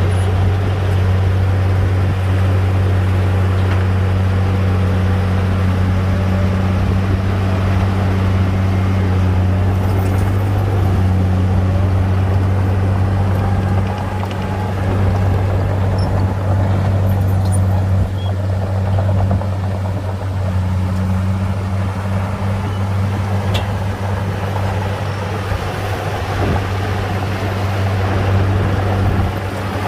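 Heavy diesel engine of a bulldozer running steadily with a deep drone, easing slightly about halfway through.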